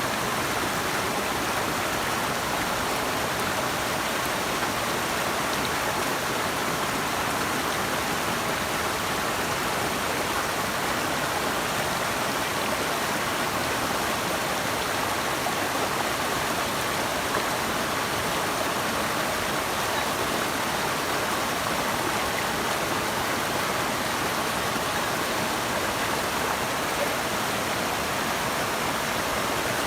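Running water rushing steadily, an even unbroken hiss without separate splashes or other sounds.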